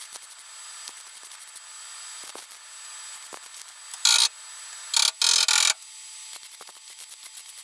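Fast, even ratcheting clicks of a hand tool at work. About four seconds in come three short, loud bursts of hiss, the last and longest ending near six seconds.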